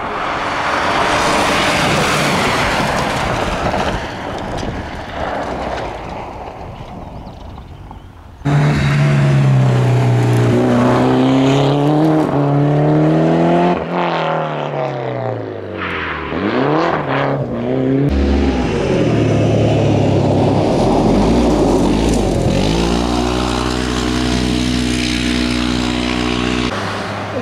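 Rally cars on a gravel-and-tarmac stage during reconnaissance: first a car going past at speed, a broad rush of engine and tyre noise that fades, then after a sudden change a car engine revving up and down through the gears, settling into a steadier engine note near the end.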